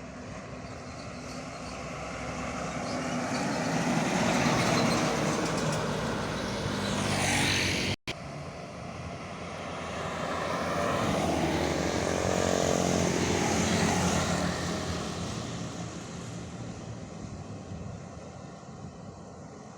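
Heavy truck engines going past twice, each growing louder, peaking and fading away. The first pass cuts off abruptly about eight seconds in.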